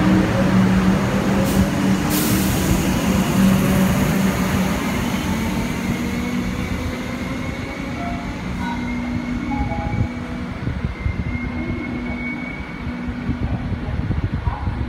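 Electric suburban train pulling out of a station and moving away: wheels rumbling on the rails under a motor hum and a thin whine that slowly rises in pitch as it speeds up, the whole sound gradually fading as it recedes.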